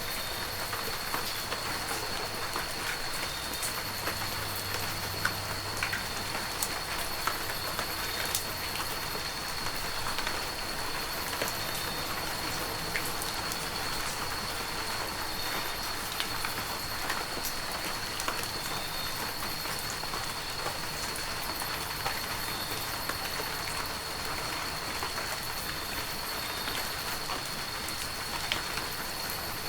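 Heavy rain falling steadily, a dense even hiss with sharp taps of individual drops scattered through it. A thin, steady high-pitched tone runs underneath throughout.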